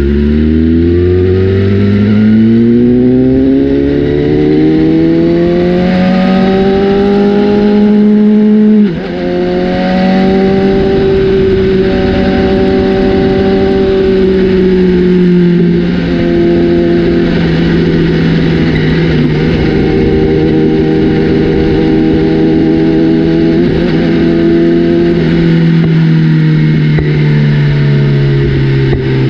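BMW S1000RR inline-four engine through an aftermarket Austin Racing exhaust, loud, revving up under hard acceleration with its pitch climbing steadily for about nine seconds. Then a gear change drops the pitch sharply, and the engine runs at a fairly steady speed with a couple of smaller shifts in pitch later on.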